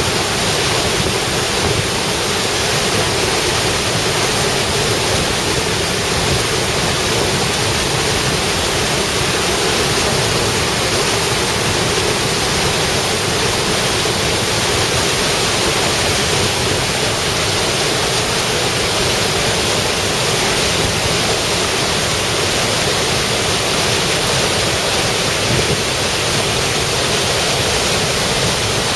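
Steady, unbroken rush of falling water from a large waterfall.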